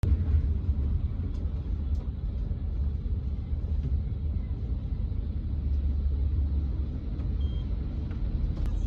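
Steady low rumble of a road vehicle on the move, heard from inside. It stays even throughout, with a few faint clicks.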